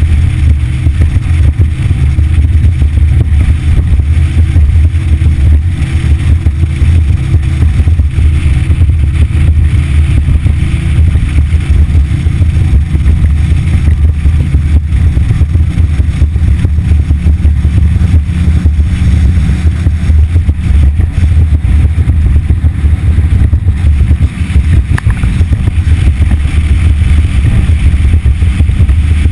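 Yamaha F60 four-stroke outboard motor running steadily with the boat under way, a loud, even low drone with no change in speed.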